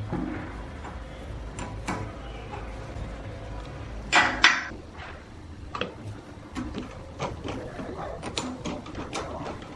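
Scattered clicks and knocks of objects being handled, with a brief, louder double scrape about four seconds in and a low steady hum underneath for the first half.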